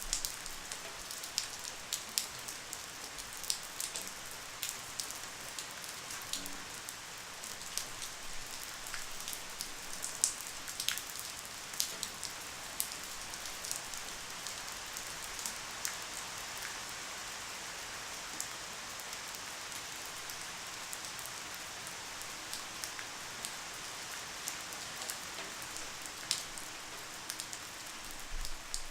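Light rain falling steadily, a soft hiss with scattered close drops ticking on a surface.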